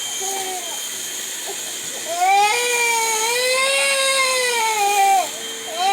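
Infant crying: a few short whimpers, then one long wavering wail that rises and falls over about three seconds, and a fresh wail starting near the end. A vacuum cleaner hums steadily in the background.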